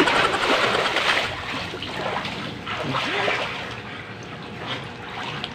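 Pool water splashing and sloshing as a swimmer strokes through it, loudest in the first second and then fading to a gentle lapping.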